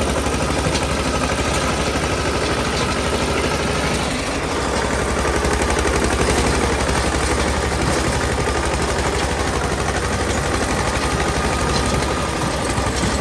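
Eicher 242 tractor's two-cylinder diesel engine running with a rapid, even chugging.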